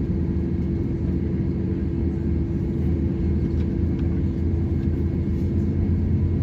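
Steady low rumble with a constant hum inside an Airbus A320-200 cabin, the aircraft running on the ground before takeoff.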